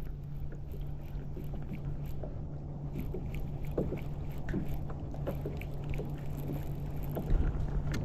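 Wind rumbling on the microphone out on a boat, over a steady low hum, with scattered light ticks throughout.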